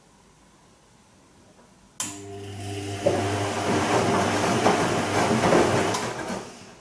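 Bosch Serie 2 VarioPerfect washing machine turning its drum during a gentle Silk wash: the motor hum starts abruptly about two seconds in, then laundry and water swish in the drum for a few seconds before fading out near the end.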